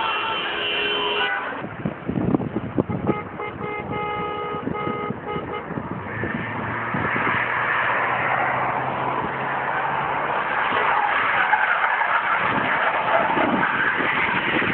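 Road traffic in heavy rain: car horns sound, one held for about a second at the start and then short repeated toots a few seconds in. From about six seconds on, a steady loud hiss of tyres on the wet road runs with an engine.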